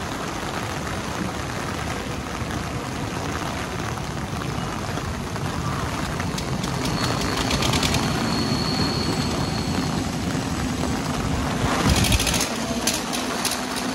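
Suburban EMU local train running on the tracks: a steady rumble and rush, with spells of rapid clatter about seven seconds in and again near the end, and a brief high whine between them.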